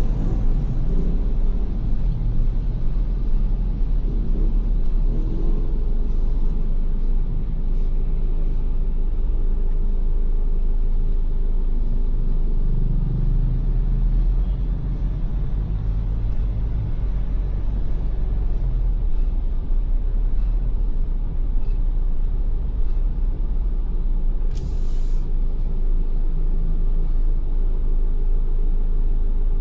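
Ford Everest SUV on the move, a steady low rumble of engine and tyres on wet road, with faint short high chirps every second or two through the latter part and a brief hiss near the end.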